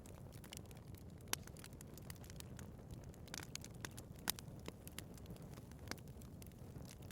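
Wood fire burning in a fireplace: a steady low rumble under frequent sharp crackles and pops, with two louder pops about a second in and about four seconds in.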